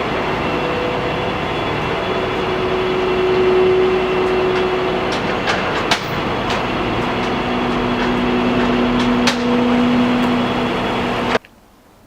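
Flatbed tow truck on the road: a steady engine drone and road noise, its hum shifting in pitch over several seconds as speed changes, with a few light rattles. The sound cuts off abruptly near the end.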